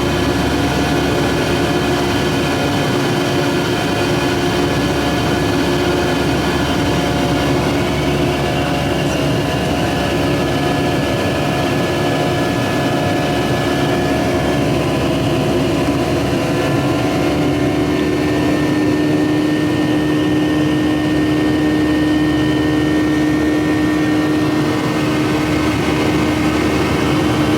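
Steady drone of an airliner's jet engines heard inside the cabin in flight. Its tones shift in pitch about halfway through.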